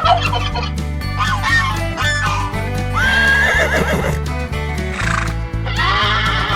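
A horse whinnying, a long wavering call about three seconds in, over background music with a steady bass beat.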